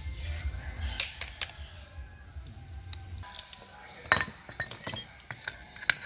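Hand sanding strokes that stop within the first half-second, then a few sharp clicks, and from about three seconds in a series of sharp metallic clinks and taps as small metal parts are handled.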